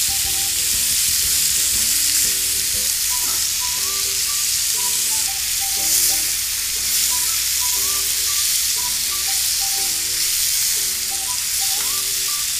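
Chicken pieces sizzling steadily as they fry in oil in a nonstick kadai, stirred with a steel ladle. A soft melodic background tune plays underneath.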